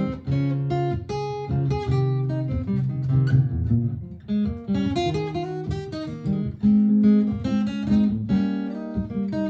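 Martin GPCPA4 steel-string acoustic guitar played through a looper pedal: strummed chords and picked single notes.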